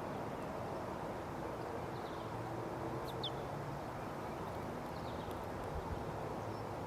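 Wind rushing over the microphone, with a few faint, short, high chirps from an American goldfinch about two, three and five seconds in.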